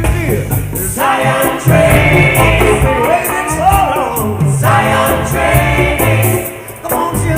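Live reggae band playing, with sung vocal phrases over a steady bass line and drums.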